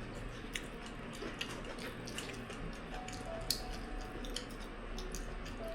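Sounds of a meal being eaten: scattered small clicks and taps of utensils against dishes, with chewing, over a low steady hum. Faint background music notes come in about halfway through.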